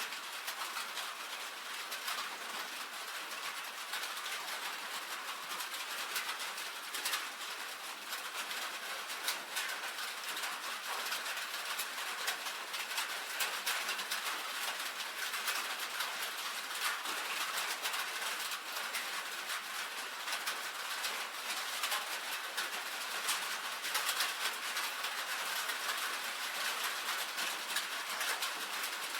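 Steady rain on a tin roof: a dense patter of drops with many sharp individual ticks on the metal.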